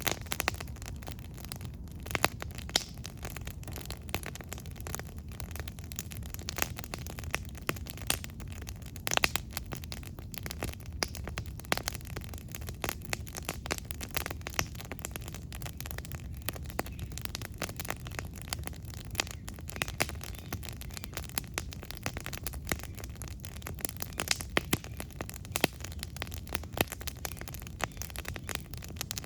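Campfire crackling, with frequent irregular sharp pops of varying loudness over a steady low rumble.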